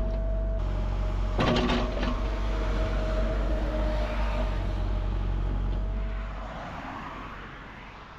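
Hydraulic excavator engine running steadily with a low rumble, with a short metallic clank about one and a half seconds in. The engine sound dies down over the last couple of seconds.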